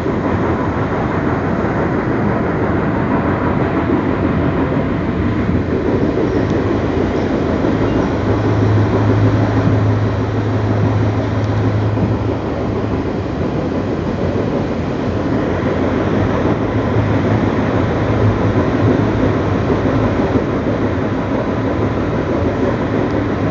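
Passenger train running on the rails, heard from inside the carriage: a steady loud rumble of wheels and running gear as the train goes through a tunnel, with a low drone swelling for a few seconds about eight seconds in.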